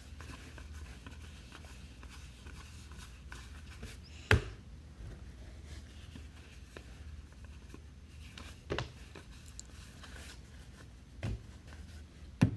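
Trading cards being handled and sorted during a pack break: quiet shuffling with a few sharp taps, the loudest a little over four seconds in, over a low steady hum.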